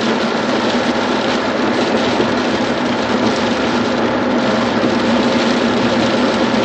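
Steady driving noise heard from inside a Chevy pickup's cab on a snow-covered, icy highway: engine, tyres and wind blending into an even rush with a steady low hum.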